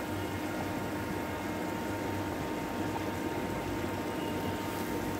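Okra frying in oil in a stainless steel pan, a steady sizzling hiss with a low hum underneath.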